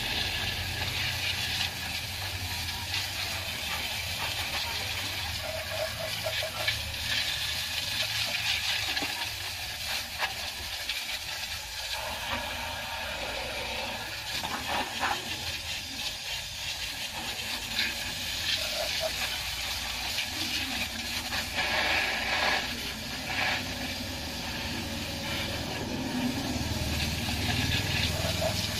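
Garden hose spraying soapy water over a car's engine bay, a steady hiss that comes and goes a little in strength, with a low steady hum underneath.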